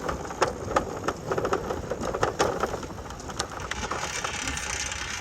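Bicycle clicking and rattling irregularly as it is handled and set going, settling into a steadier noise after about four seconds.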